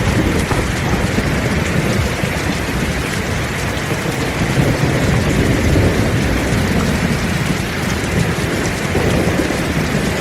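Heavy rain falling steadily, with a low rumble of thunder that swells about halfway through.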